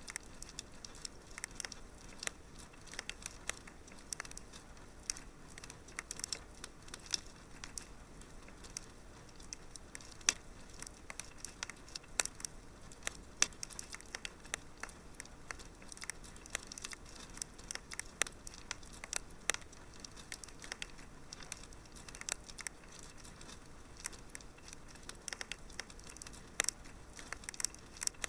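Wood fire crackling in a fireplace: a steady faint hiss with irregular small pops and snaps several times a second.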